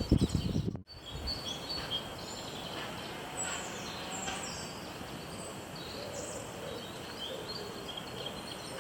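Wild birds chirping and singing over a steady outdoor hiss, with a brief dropout just under a second in.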